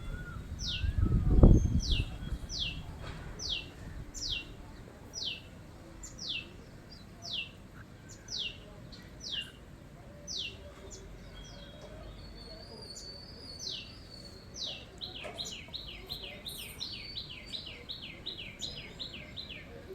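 Indian palm squirrel giving repeated high-pitched chip calls, each a short falling note, about one a second at first, then quickening into a rapid run near the end. A loud low rumble or thump comes in the first two seconds.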